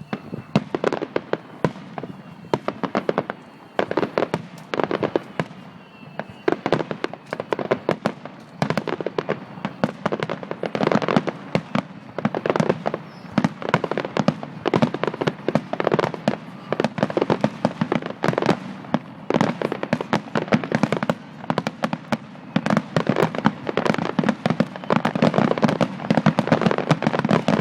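Aerial fireworks bursting in a rapid, continuous barrage of sharp bangs, many a second, growing denser and louder toward the end.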